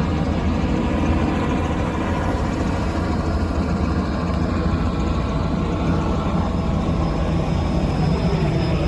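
Steady vehicle rumble: engine and road noise of a car being driven, with no distinct events.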